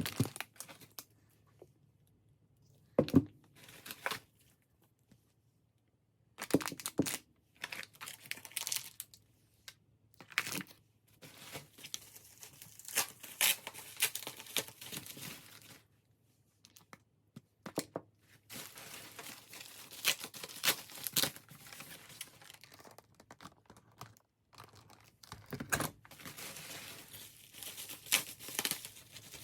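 Packaging being handled: plastic or paper crinkling and tearing in irregular bursts, with a few short knocks, over a faint steady hum.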